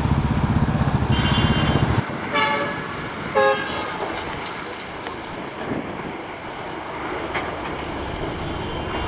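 A narrow-gauge locomotive on a salt railway: a heavy engine rumble close by stops abruptly, then comes two short horn toots, then the quieter running of the train.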